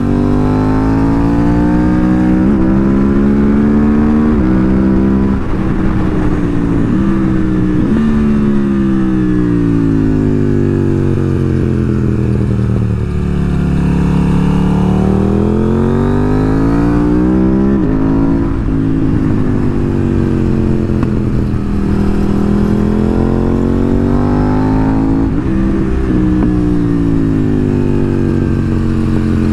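KTM 890 Duke R parallel-twin motorcycle engine under way, its pitch repeatedly climbing under acceleration and dropping off. It falls to its lowest about halfway through, then pulls back up.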